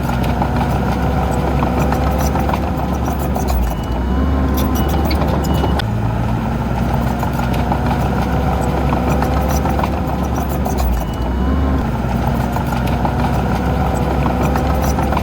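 Heavy diesel engine of earthmoving machinery running under varying load, its pitch and level stepping up and down every few seconds, with scattered short clanks and clicks over it.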